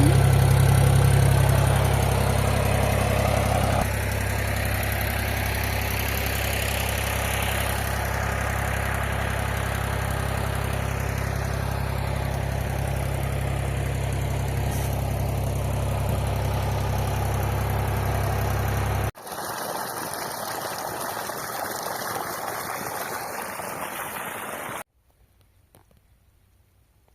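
Tractor engine running steadily while driving a PTO-powered water pump, easing slightly about four seconds in. It cuts off abruptly, giving way to a steady hiss for about six seconds, then near silence near the end.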